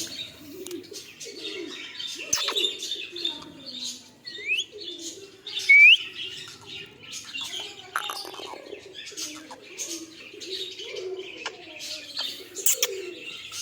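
Pigeons cooing in wavering low calls under a constant chatter of small birds chirping, with two short rising whistled calls about four and a half and six seconds in.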